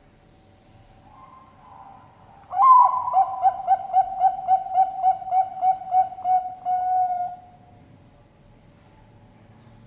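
Zebra dove (Bangkok-type perkutut) cooing its song: a loud opening coo, then a fast run of about a dozen short coos, roughly three a second, ending in one longer held coo.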